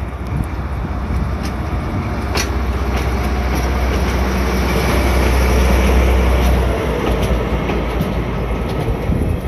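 Shunting train of coaches with a steam locomotive and DE10 diesel moving slowly past, wheels clicking over the rail joints over a low steady drone that builds and then drops away about seven seconds in.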